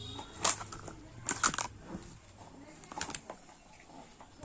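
Small plastic toys knocking and clattering against each other in a few short clicks, about half a second, a second and a half, and three seconds in.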